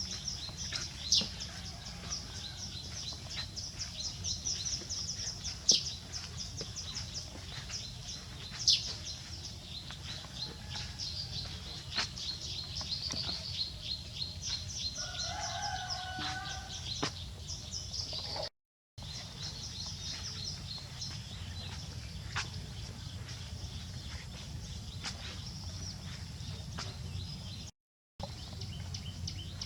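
Birds chirping in fast, high, evenly repeated trills over a steady low rumble, with a brief lower call about halfway through and a few sharp clicks. The sound drops out briefly twice.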